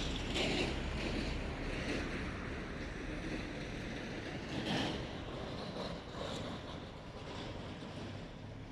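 Motorcycle riding along, heard mostly as a steady rush of wind on the microphone over low road and engine rumble, with a couple of brief louder gusts. It eases off a little toward the end.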